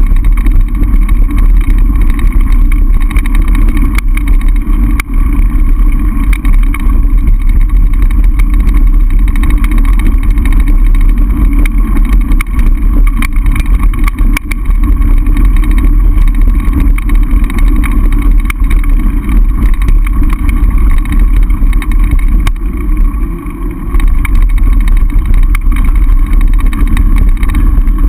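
Loud, steady wind buffeting over a camera microphone carried on a mountain bike, with occasional knocks from the bike over rough ground.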